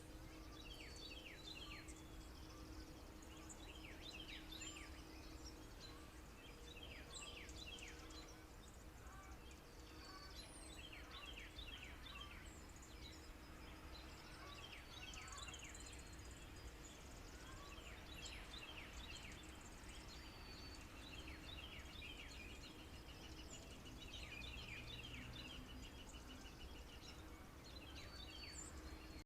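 Small birds calling faintly in repeated clusters of quick, downward-sliding chirps, with a rapid trill near the end, over a steady low rumble.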